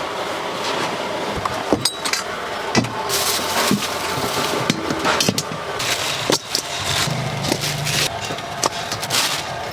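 Scattered clinks and knocks of cooking utensils and containers at a street-food stall, over a steady noisy background.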